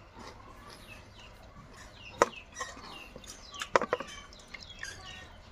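Birds chirping repeatedly in short falling peeps in the background, with a few sharp clicks about two and nearly four seconds in.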